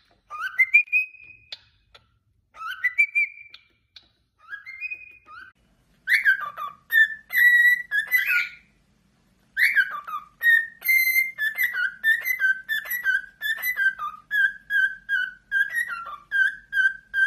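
Cockatiel whistling. It starts with short two-note phrases repeated with pauses, then breaks into a longer whistled song of quick repeated notes, about two a second.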